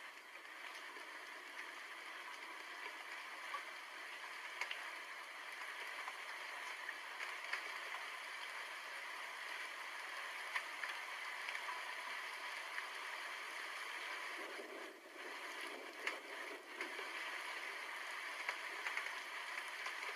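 Steady rain falling: an even hiss of drops with scattered sharp drip ticks, dipping briefly twice near the end.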